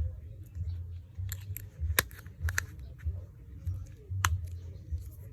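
Small items and plastic packaging being handled: a series of sharp clicks and light rustles, the loudest about two seconds in and again near four seconds, over a low, uneven rumble.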